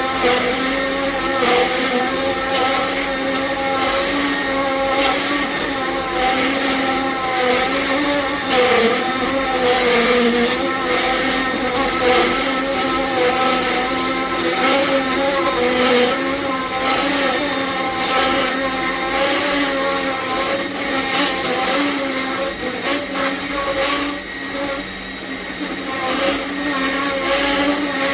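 AMZCHEF cold-press slow juicer's electric motor running steadily, a humming whine whose pitch wavers slightly as it works, with irregular clicks over it.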